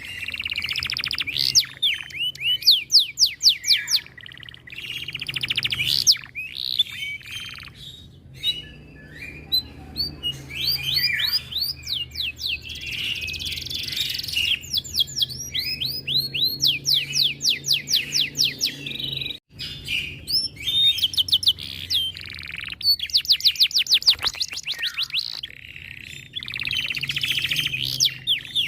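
Domestic canary singing a long, fast song of rapidly repeated trilled notes and rolls, broken by short pauses.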